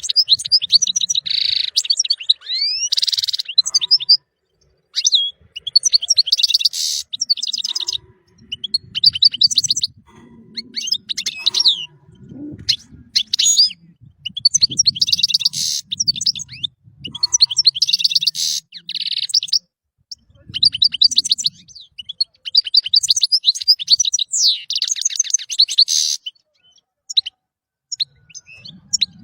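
European goldfinch singing: fast, tinkling twitters and buzzy trills in phrases of a second or two, broken by short pauses.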